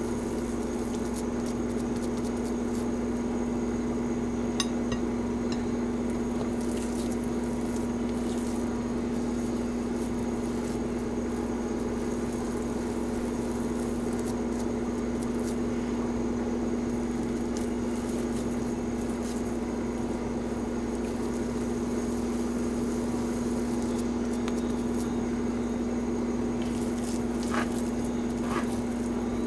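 A steady low hum, with a few faint soft clicks about five seconds in and again near the end.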